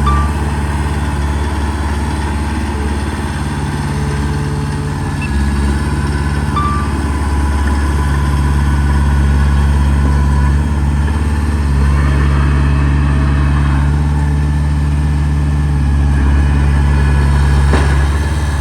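Heavy diesel machine engine running steadily, its low drone easing and picking up a little in load every few seconds, with a brief knock near the end.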